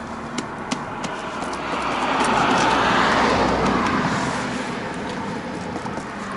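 A road vehicle passes by, its noise swelling to a peak about three seconds in and then fading.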